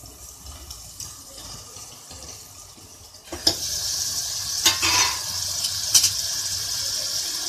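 Chopped onion, tomato and ginger-garlic paste sizzling in hot oil in a stainless-steel pressure cooker as a spatula stirs them. The sizzle comes in suddenly about three seconds in and holds steady, with a few sharp knocks of the spatula against the pot.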